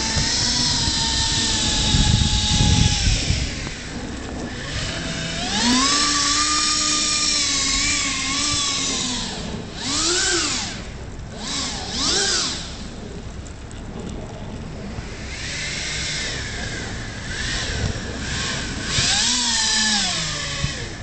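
Twin 100 mm electric ducted fans of a radio-controlled jet whining as the throttle is worked up and down: the whine rises and holds for a few seconds, gives a couple of short rising-and-falling blips, then climbs again and falls away near the end.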